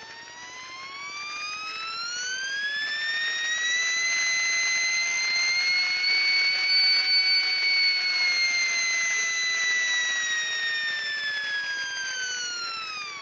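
Modified brushed electric RC car motor running up on a speed control: a high whine that rises in pitch as the throttle is opened, holds at a very high RPM in the middle, then falls as it is throttled back.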